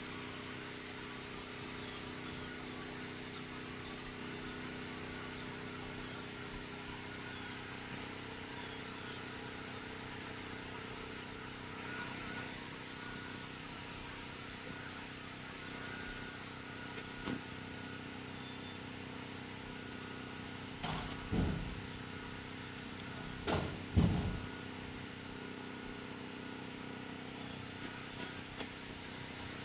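Steady drone of a compressor or generator running down the street: a hum with several steady tones under it. About two-thirds of the way in come two loud, low rumbles about three seconds apart.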